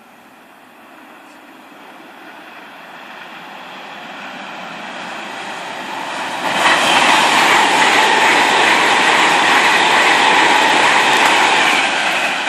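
A train approaching and growing steadily louder, then passing close by from about six and a half seconds in with a loud rush of wheels on rail, easing off near the end.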